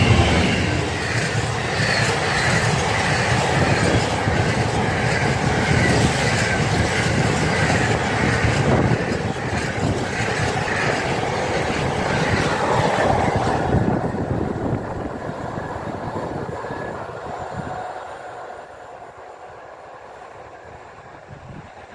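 Freight train wagons rolling past, with wheel squeal and clicking over the rail joints. About two-thirds of the way through the sound fades away as the train moves off, leaving faint wind noise.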